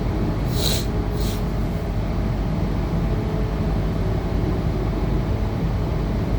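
Tangara electric train running, heard from inside the carriage as a steady low rumble. About a second in come two brief high hissing or squealing bursts, close together.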